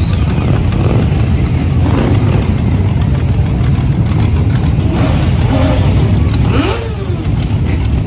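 Motorcycle engines running together in a group ride, a steady low rumble with a short rising rev about two-thirds of the way through.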